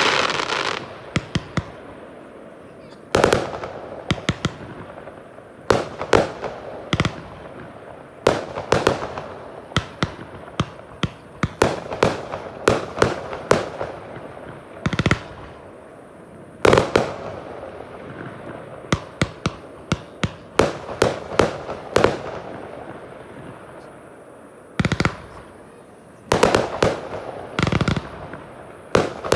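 Fireworks display: shells bursting one after another, sharp bangs every second or two with clusters of rapid cracks in between, each bang trailing off in an echo.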